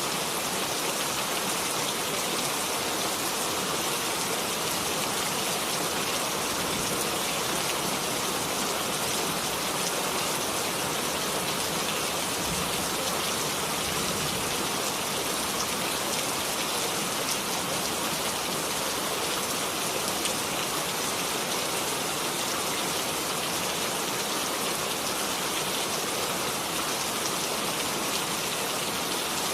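Steady rain falling and pattering on a surface, an even, unbroken hiss with fine drop detail.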